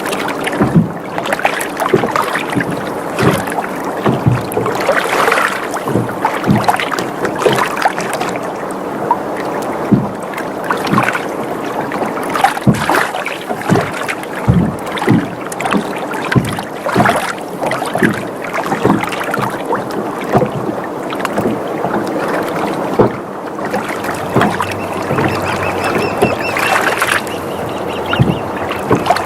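Water sloshing and lapping against a sailboat's hull, mixed with frequent short knocks and creaks from the boat as it rocks.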